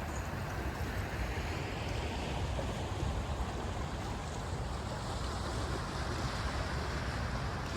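Flowing floodwater rushing in a steady wash of noise, with wind buffeting the microphone as a low rumble.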